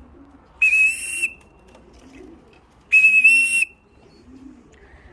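Repeated short whistle blasts on one steady high pitch, each lasting under a second, coming about every two seconds.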